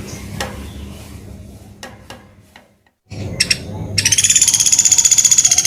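Pelatuk beras (common flameback woodpecker) giving its rapid rattling trill of about fifteen even notes a second, starting about four seconds in after a short gap. Before it there are scattered clicks.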